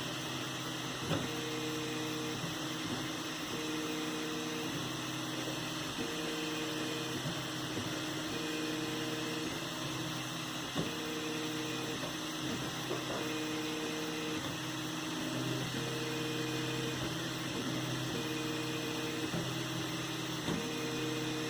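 3D printer running: its stepper motors whine in steady tones, one note switching on and off about every second in a regular back-and-forth pattern, over a steady hiss, with a couple of short clicks.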